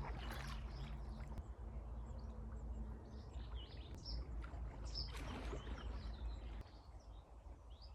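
Small birds chirping repeatedly over a steady low rumble, with two brief rushing surges of noise, one at the start and one about five seconds in.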